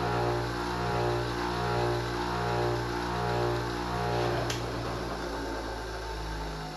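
Electric motor of a Wolff Industries Model A1 (Twice as Sharp) scissor sharpener running with a steady hum that swells slightly about every two-thirds of a second, fading out near the end.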